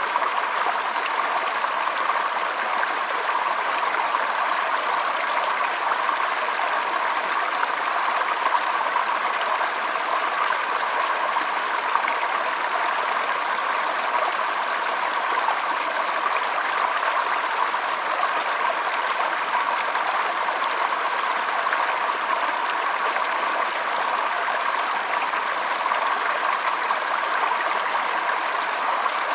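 Shallow stream flowing and trickling, a steady even rush of water.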